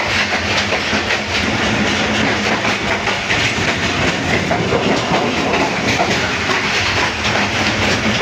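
Moving passenger train heard from on board: a loud, steady rumble and rattle of the carriage, with the clatter of wheels running over the rail joints.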